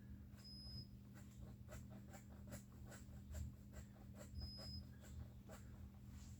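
Near silence: faint, irregular small ticks and clicks over a low steady hum, with two brief high squeaks about four seconds apart.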